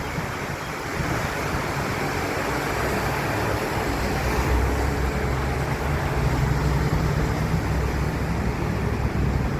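Heavy rain pouring down, a dense steady rushing hiss. A low steady hum joins it about four seconds in.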